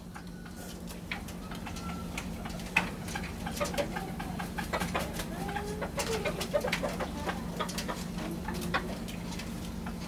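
Doves cooing and chickens clucking, with many scattered sharp clicks and knocks, the loudest about three seconds in. A steady low hum runs underneath.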